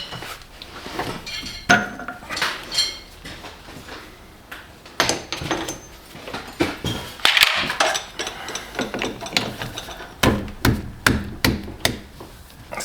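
Metal tools and parts knocking and clinking as they are handled: irregular sharp taps and knocks, some ringing briefly, with a quick run of knocks about ten seconds in.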